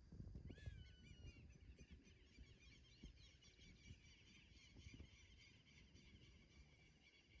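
Faint chatter of a flock of birds, many quick calls overlapping, starting about half a second in, over a low rumble.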